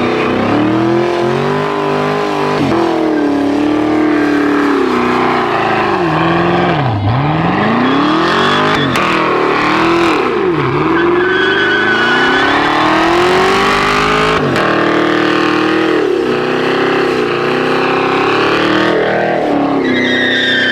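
Truck engines revving and running hard, pitch climbing and falling, with two sharp drops and climbs in revs near the middle.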